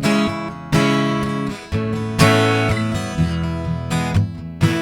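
Acoustic guitar strumming chords, several strums in a loose rhythm, each chord left to ring and fade.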